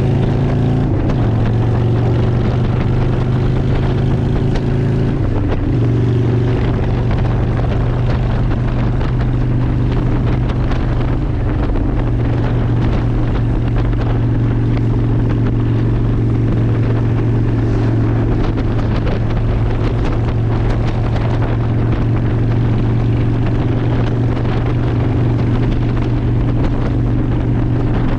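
Honda Shadow ACE 750's V-twin engine running steadily under way, with wind rushing over the microphone; the engine note shifts briefly a few times in the first half.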